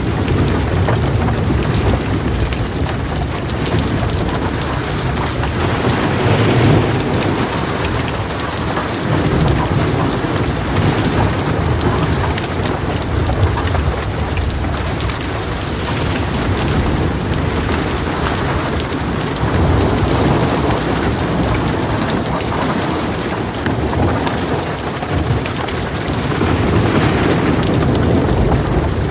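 Heavy rain drumming steadily on a metal roof, with low rolls of thunder swelling and fading several times.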